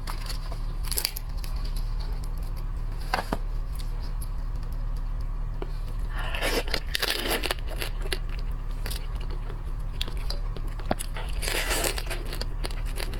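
Shellfish shells being cracked and peeled by hand, with scattered sharp clicks and two longer tearing, rustling stretches, one about halfway through and one near the end. A steady low hum runs underneath.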